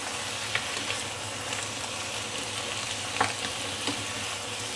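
Chicken chunks frying with ginger slices and garlic cloves in sesame and vegetable oil: a steady sizzle with scattered sharp crackles, the loudest about three seconds in.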